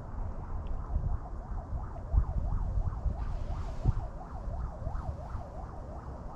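Wind buffeting the microphone in uneven gusts, with a faint tone warbling up and down about three times a second.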